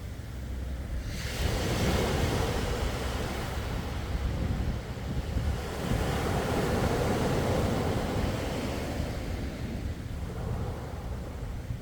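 Sea waves washing onto the shore: a wash of surf swells up about a second in, surges again midway and eases off near the end, over a steady low rumble of wind on the microphone.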